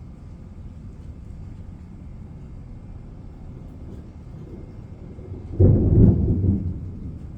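Thunder: a sudden loud clap about five and a half seconds in, deep and rumbling, fading away over a second or so. Before it there is a steady low background rumble.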